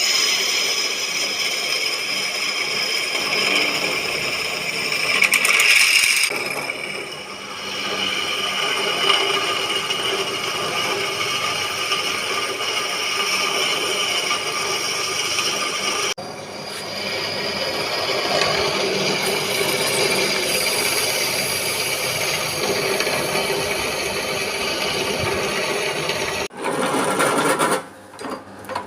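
Metalworking machinery running steadily, with metal scraping and rattling, in several stretches that change abruptly about 6, 16 and 26 seconds in.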